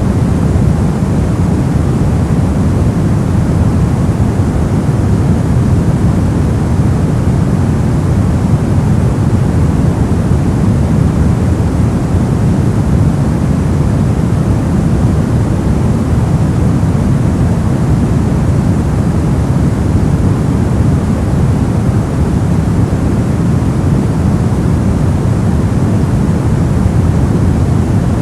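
Steady generated white noise: an even, unchanging rush with no tones or events, its weight in the low end, so it sounds deep rather than bright.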